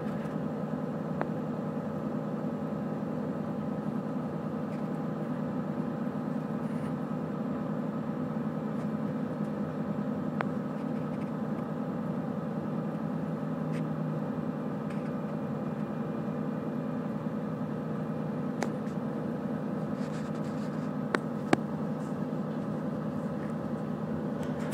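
Steady running hum of a train heard from inside the carriage, with several held tones over the low rumble and a few scattered sharp clicks.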